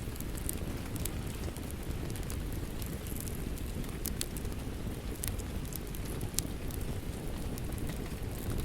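Wood fire crackling, with scattered sharp pops, over a steady low rush of rain.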